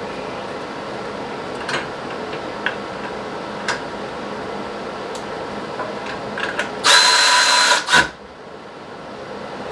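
A cordless electric ratchet runs in one short whirring burst of about a second, backing out a fastener, with a steady high whine and a knock just after it stops. Light clicks and taps of hand work on plastic trim and fasteners come before it.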